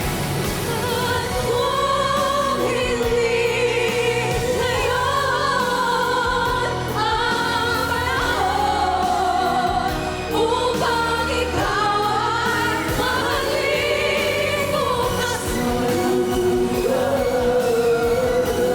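Female vocal group singing a sustained, melismatic passage of an OPM love ballad in layered parts with vibrato, over a band or orchestral accompaniment.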